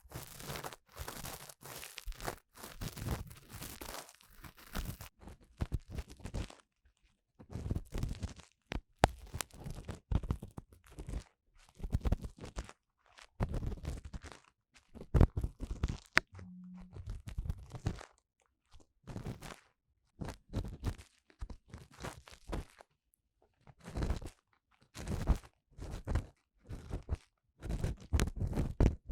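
Ear cleaning on a 3Dio binaural microphone's ear: an ear-cleaning tool scraping and rubbing inside the ear canal in irregular, crackly strokes, in runs with short pauses between them.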